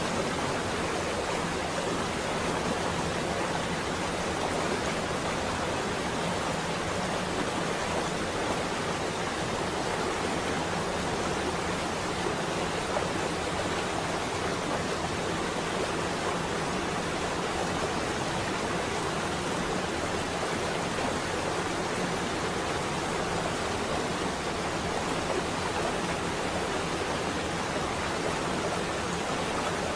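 Rain falling on a window, a steady, even hiss with no breaks.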